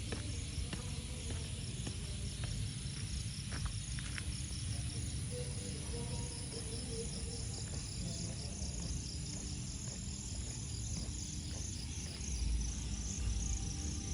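Crickets and other insects chirping in rapid repeating pulses over a steady high buzz, with a low rumble beneath that grows heavier near the end.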